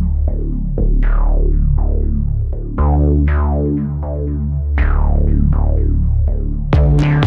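Dark techno track: repeated synthesizer plucks, each with a quickly closing filter sweep, over a heavy sustained bass. Near the end a drum-machine beat with fast hi-hats comes in.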